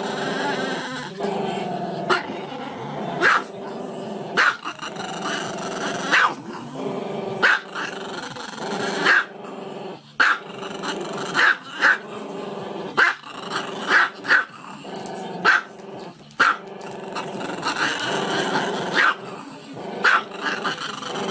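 A small black-and-tan dog giving long, drawn-out, growly howls that rise and fall in pitch, broken by short, sharp barks about once a second.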